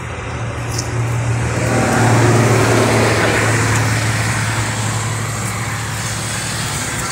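Steady low hum of a motor vehicle engine running, growing louder and fuller from about two seconds in and then easing back.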